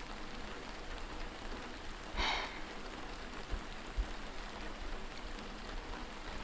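Steady rain falling, an even hiss, with a short breathy sound about two seconds in and two faint low bumps a little later.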